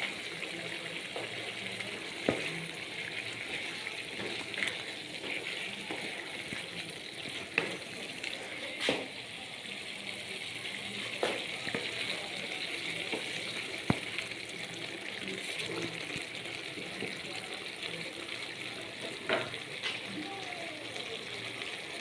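Chicken pieces and curry leaves frying in oil in a pan, a steady sizzle, with a spoon knocking and scraping against the pan every few seconds as it is stirred.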